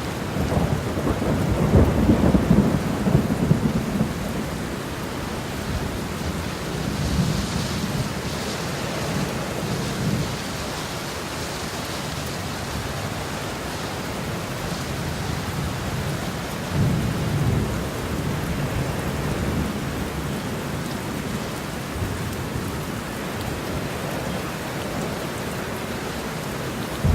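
Steady rain falling, with rolling thunder that rumbles loudest in the first few seconds and again about two-thirds of the way through.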